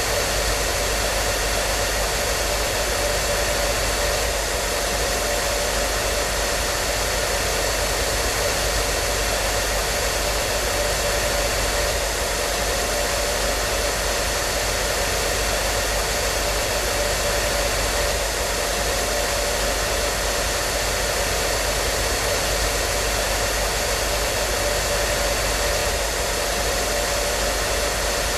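Hair dryer running continuously at a constant speed: a steady rush of air with a faint motor hum, unchanging throughout.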